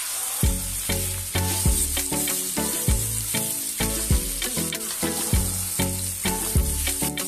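Chicken strips and onions sizzling in oil in an enamelled pan while being stirred with a wooden spoon. Background music with a steady beat comes in about half a second in and is louder than the sizzle.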